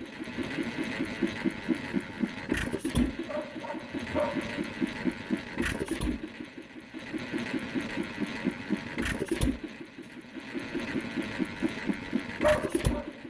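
Fairbanks Morse 1 1/2 hp dishpan hit-and-miss engine running on battery and coil ignition. It fires a loud power stroke, sometimes two together, about every three seconds and coasts with a steady rhythmic clatter in between: the governor holding it at speed, running well.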